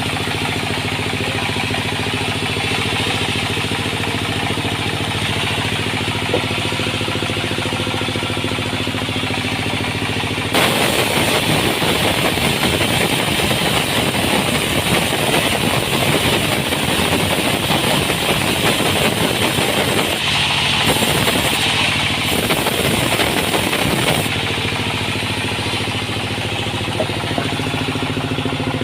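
Sawmill machinery running with a steady engine hum. About ten seconds in a louder, rougher noise of the saw cutting through wood starts. It dips briefly a couple of times and stops about twenty-four seconds in, leaving the engine hum.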